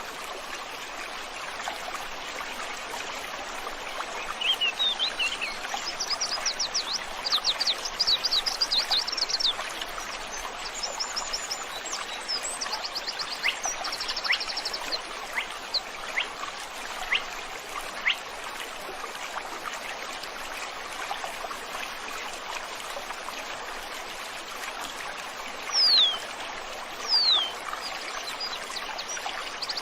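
Stream flowing with a steady rushing hiss while wild birds sing over it. Fast high trills come in the first third and again around the middle, with scattered short chirps. Near the end come two loud falling whistles, the loudest sounds.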